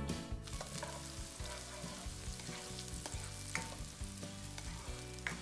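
Onions and green chilies sizzling as they fry in hot oil, with a few light clicks of a spoon stirring them in the pan.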